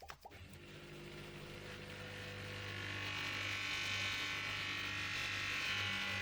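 Electric polishing motor switching on and spinning up, its hum and whine growing louder over about three seconds, then running steadily.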